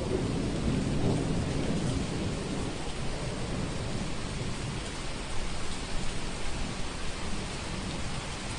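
Steady rain with a low rolling rumble of thunder that is strongest in the first few seconds and fades away.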